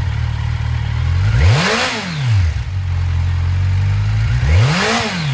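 2011 Kawasaki Ninja 1000's liquid-cooled inline-four engine idling, blipped twice, about a second and a half in and again near the end, each rev rising quickly and falling back to idle.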